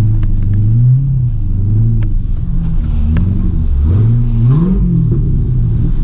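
C5 Corvette's 5.7-litre V8 running loud through a muffler-deleted exhaust, its revs rising and falling several times, dipping low and climbing again past the middle. The sound cuts in abruptly at the start.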